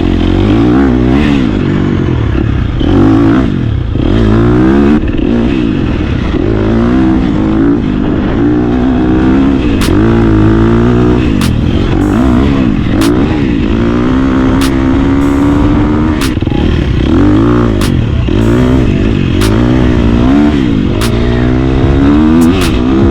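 Dirt bike engine running hard under way, its pitch climbing and dropping again and again as it is ridden through the gears. Heard through a GoPro's microphone.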